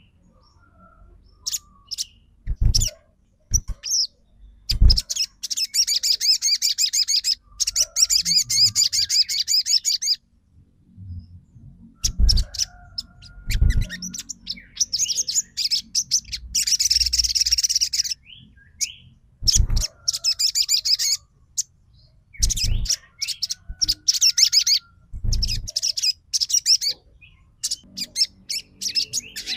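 Sogon songbird singing in repeated bursts of rapid, high trilling chirps, each burst lasting one to three seconds with pauses between, used as a lure song to make other sogon birds answer. A few short dull thumps fall in the gaps.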